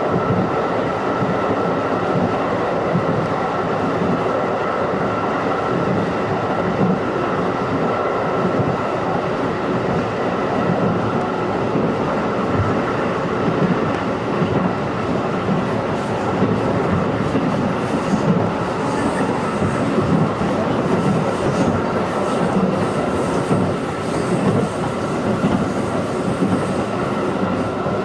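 211-series electric multiple unit running at speed, heard from inside the passenger car: a steady rumble of wheels on rail and running gear with a constant whine. A faint high-pitched wheel squeal comes in during the second half.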